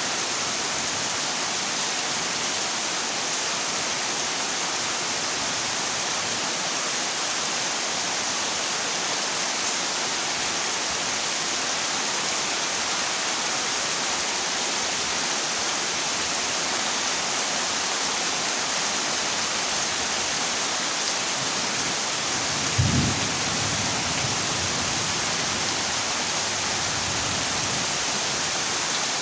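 Heavy rain drumming steadily on a corrugated zinc roof, with one short low rumble of thunder near the end.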